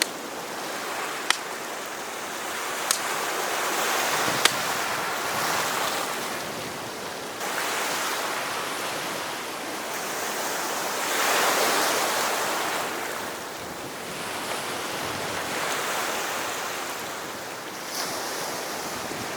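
Surf breaking and washing up on a beach, swelling and fading in slow waves, with a few sharp clicks in the first few seconds.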